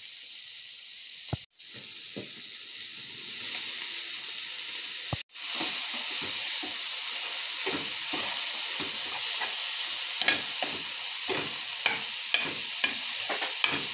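Shrimp, onion and green chilies sizzling in oil in a nonstick frying pan, with short taps and scrapes of the stirring utensil against the pan. The sound breaks off briefly twice. After the second break, with green peas now in the pan and steam rising, the sizzle is louder and the taps come more often.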